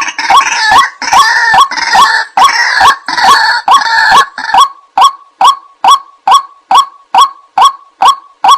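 White-breasted waterhen calling: harsh, noisy croaking over a run of repeated short notes for the first half, then settling into a steady series of single 'kwak' notes about two to three a second, as used in a bird-trapping lure recording.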